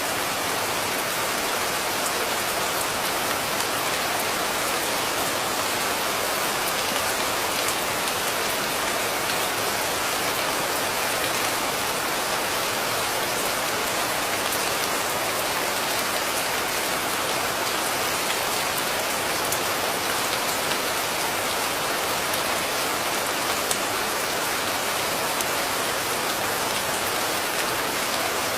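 Steady rain falling, an even hiss of many drops with fine ticks of individual drops and no thunder.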